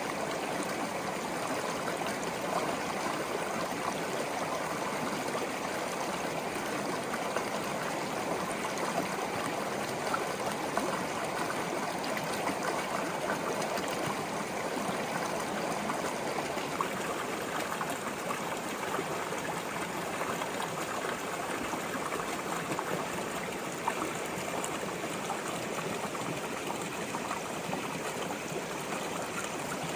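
Small brook flowing, a steady trickling and babbling of water over stones.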